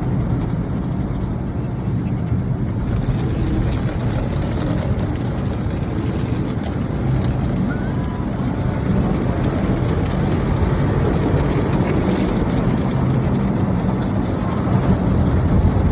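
Car wash running over a car: a steady rushing spray of water with a strong low rumble.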